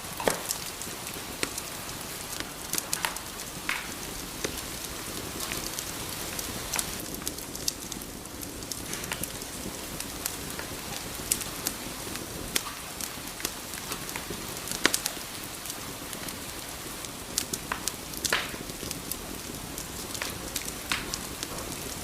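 Wood fire burning in a fireplace: a steady hiss with irregular sharp crackles and pops, a few louder snaps among them.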